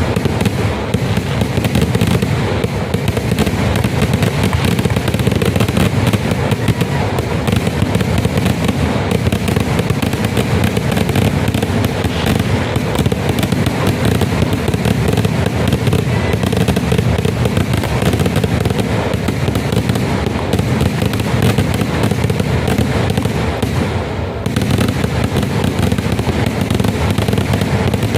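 Kerala temple-festival fireworks (vedikkettu): a loud, dense barrage of exploding firecrackers, many blasts a second, unbroken and steady throughout.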